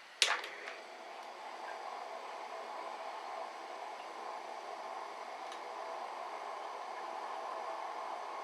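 A single sharp knock of wood or metal being set down, then the steady rushing hiss of a wood fire burning in a Solo Stove.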